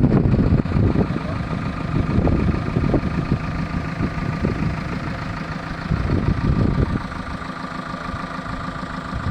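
Heavy diesel engine running steadily, with irregular louder knocks and surges in the first few seconds and again about six seconds in.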